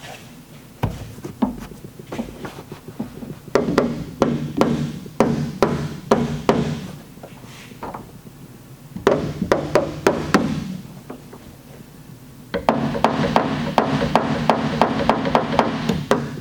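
Body hammer tapping through a plastic puck on the sheet-metal liftgate around a glue-pull tab held under tension, in runs of light, quick taps (about three to four a second), each with a short ring.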